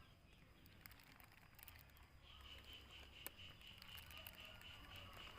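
Near silence: faint background with scattered small clicks, and a faint steady high-pitched tone that comes in about two seconds in and holds.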